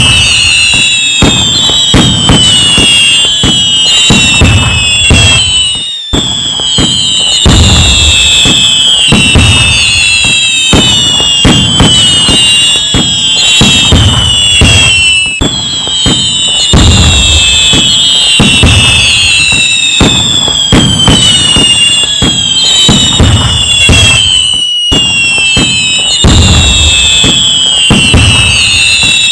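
Fireworks going off nonstop: dense bangs and crackling layered with many overlapping high whistles that fall in pitch. There are brief dips about six seconds in and again near the end.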